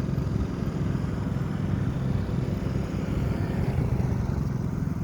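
Engines running with a steady low rumble.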